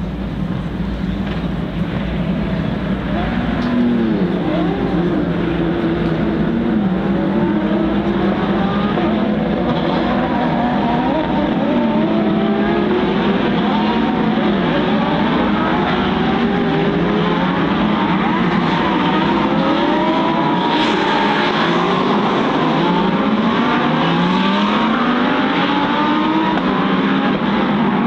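A field of GT3 race cars accelerating away one after another. Many engine notes overlap, each rising as it revs and dropping at the gear changes.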